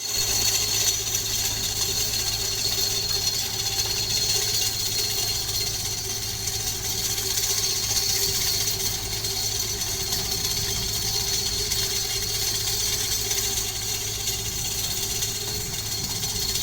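An engine of construction machinery running steadily, with a constant low hum, a steady mid-pitched tone and a high hiss and whine above it.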